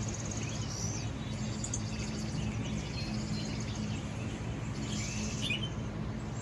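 Small birds chirping and trilling from a nature video played through a phone's speaker, short high chirps and quick repeated trills, over a steady low hum.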